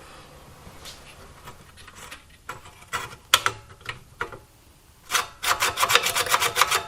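Hand tools working on a small engine's throttle linkage: a few scattered sharp metal clicks, then near the end a quick, even run of clicks, about nine a second, like a socket ratchet being turned.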